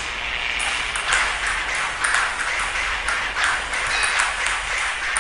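Table tennis ball being hit back and forth in a fast rally, sharp clicks of ball on paddle and table about three times a second, over a steady hiss.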